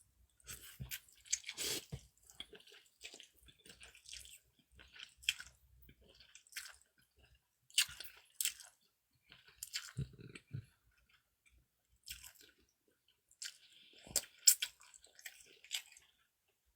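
A person eating cold noodles and dumplings: faint, irregular chewing with short clicks. There are a few louder bites about halfway through and near the end.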